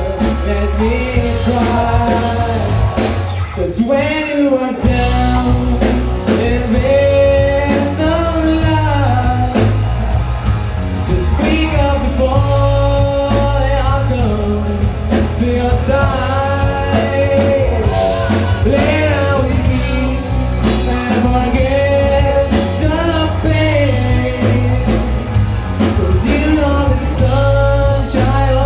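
Rock band playing live with a lead singer: a sung melody over bass, guitar and drums.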